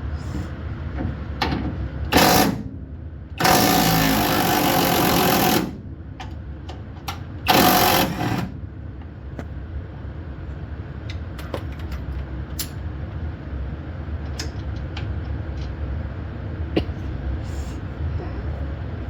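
Battery-powered impact wrench hammering on a bolt in three bursts: a short one about two seconds in, a longer one lasting about two seconds, and a short one about eight seconds in. After that come scattered light clicks and clinks of tools.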